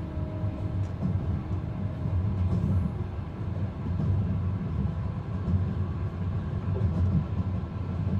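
Steady low rumble of a passenger train running on the track, as heard inside the carriage.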